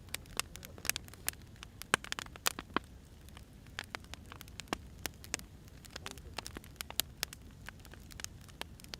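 Firewood burning, crackling with irregular sharp pops and snaps over a low, steady rumble of the flames.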